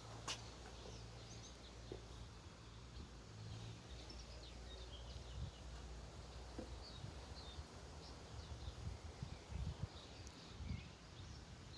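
Faint, scattered bird chirps over a low, steady outdoor rumble.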